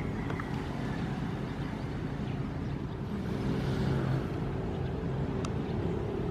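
Ocean surf: a steady low rumble of waves, with one wave swelling and washing in about halfway through.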